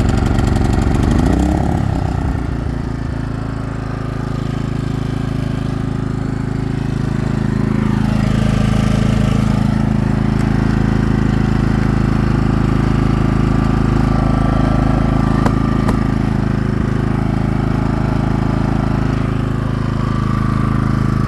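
Pulsar PGD40ISCO 4000-watt inverter generator running just after being started. Its engine speed shifts during the first couple of seconds, then it settles into a steady, loud hum.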